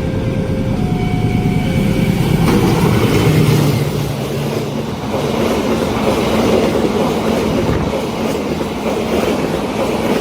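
A train passing a level crossing, its wheels clattering rhythmically over the rail joints. A few short electronic warning tones from the crossing sound near the start, before the train noise takes over.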